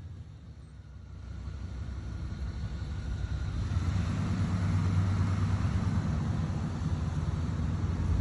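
Old pickup truck's engine running, getting louder over the first few seconds and then holding steady, cutting off suddenly at the end.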